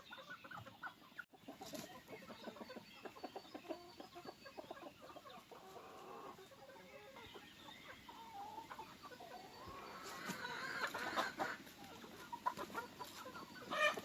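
A flock of domestic chickens clucking, short scattered calls from many birds, louder from about ten seconds in.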